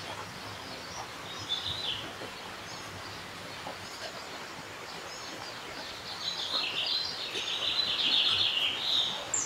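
Birds chirping: a short call about a second and a half in, then a longer run of chirps from about six seconds, loudest near the end.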